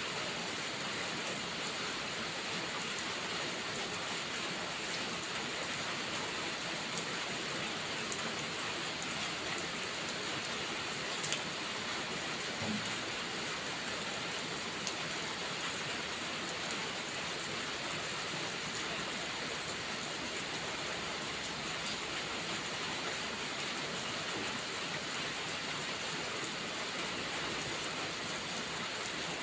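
Steady rain falling, an even hiss of many drops, with an occasional faint tick of a single drop.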